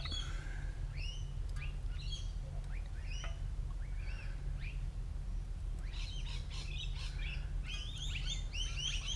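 Small birds chirping with many short, quick calls that grow busier about six seconds in, over a steady low hum.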